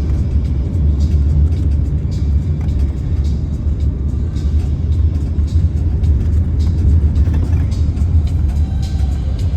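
Steady low road rumble of a moving car or van, heard from inside, with music playing over it.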